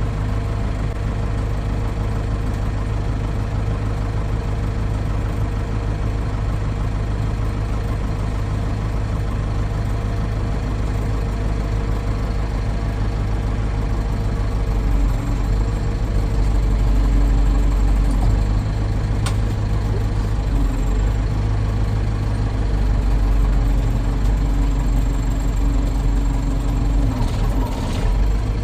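Heavy tractor engine running steadily, growing louder and changing pitch about halfway through as it is worked harder.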